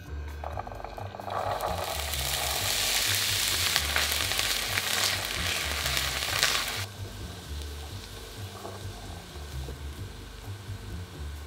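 Chickpeas frying in hot oil in a stainless steel frying pan: a loud sizzle starts about a second in, then drops suddenly to a quieter sizzle about seven seconds in, with a spatula stirring the chickpeas.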